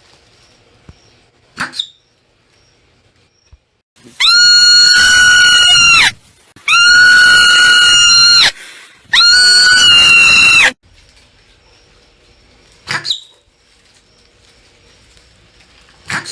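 Marmot screaming: three loud, long, shrill calls of about two seconds each, held at a steady pitch with short gaps between them. A few short, faint calls come before and after.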